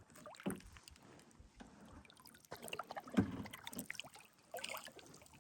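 Kayak paddling: the paddle dipping and splashing in the river with water dripping and small knocks, in irregular strokes, the loudest splash about three seconds in.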